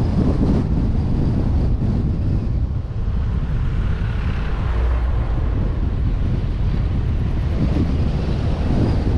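A vehicle driving, heard as a steady low rumble of engine and road noise, with wind buffeting the action camera's microphone.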